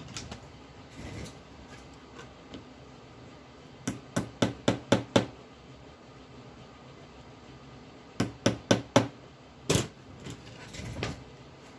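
Light tapping on a model-train wheelset, in two quick runs of five or six sharp taps, each run lasting about a second, with a louder single tap and a few softer ones afterwards; the wheels are being shifted along their axles to correct the gauge.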